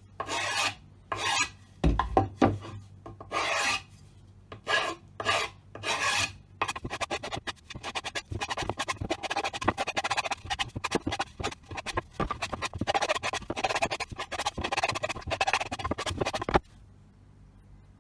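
Rasping, rubbing strokes as of filing or sanding by hand: about ten separate strokes, then a long run of fast back-and-forth strokes that stops suddenly near the end.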